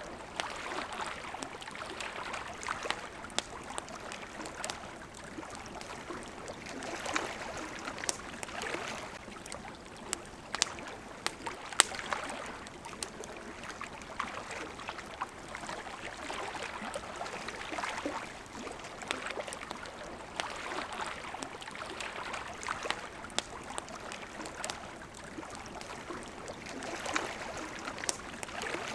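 Campfire crackling, with frequent sharp pops of burning wood and one louder snap about twelve seconds in. Behind it, gentle water lapping swells and fades every few seconds.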